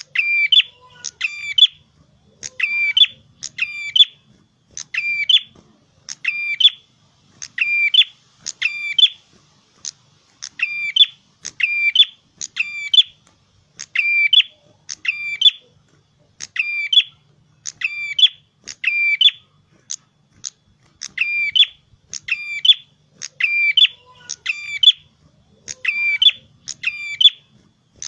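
Prenjak kepala merah (red-headed prenjak) singing persistently: a shrill, sharp phrase repeated about once a second, often in quick pairs, with short silences between.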